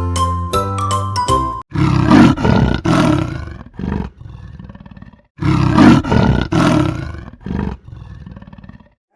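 A short chiming music jingle, then a buffalo bellowing twice: two loud, rough, drawn-out calls that each fade off at the end.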